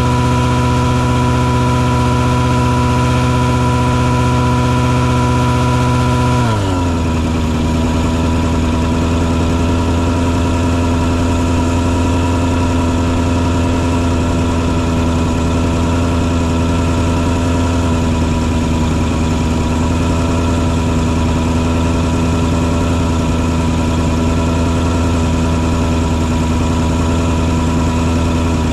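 Engine on a mosquito-fogging truck running steadily; about six seconds in its speed drops quickly and it settles into a lower, steady running speed.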